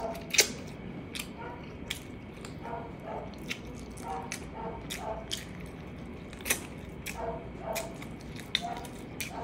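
Chewing and eating sounds of braised pork ribs and rice eaten by hand: wet lip smacks and mouth clicks several times a second, with a sharp smack about half a second in and another about six and a half seconds in.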